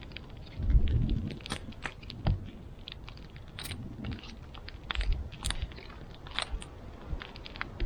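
Wood campfire crackling, with irregular sharp pops and snaps, and a dull low thump about a second in.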